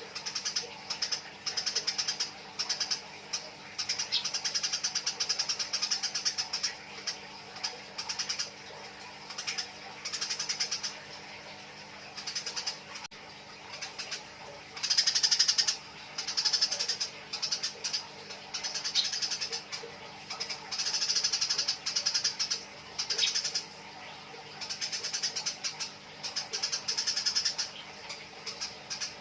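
Eurasian tree sparrows chattering in repeated bursts of rapid, harsh chirps, the excited calls of sparrows fighting.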